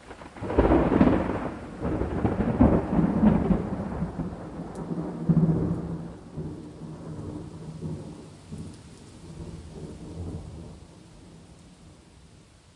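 A thunderclap breaks about half a second in and rolls on in several loud peaks, then rumbles away and fades by near the end. Steady rain hisses faintly underneath.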